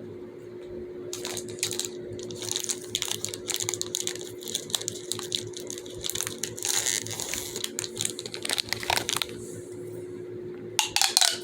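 A fidget toy being worked by hand, giving a rapid, irregular run of clicks and crackles that stops for a moment and then ends with a short louder cluster of clicks.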